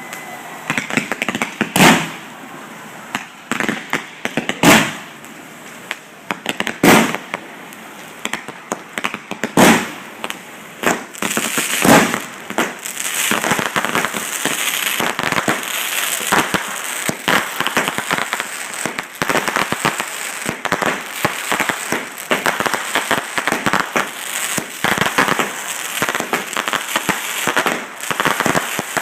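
Fireworks display: single loud shell bursts about every two to three seconds, then, from about twelve seconds in, a dense, unbroken run of rapid pops and crackling.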